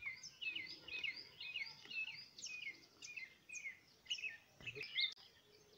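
Small birds chirping, a quick string of short high notes that mostly fall in pitch, several calls overlapping.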